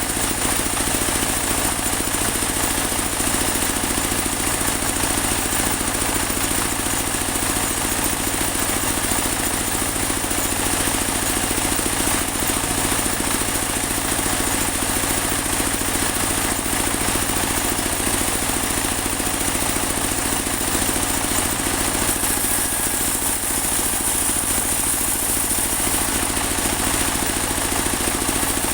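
Portable band sawmill's engine running steadily at a constant speed.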